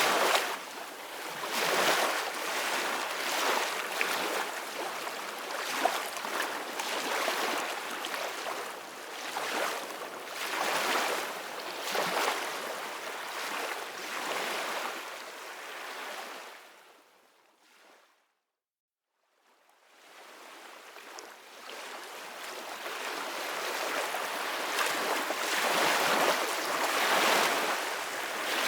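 Ocean surf on a beach: waves washing in and out in a steady rush that swells and ebbs every few seconds. A little past halfway it fades out to about a second of silence, then fades back in, a seam in the looped track.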